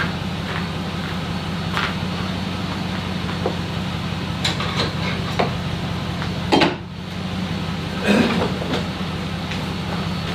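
A vehicle engine running steadily, with scattered knocks and clunks; two louder clunks come about six and a half and eight seconds in.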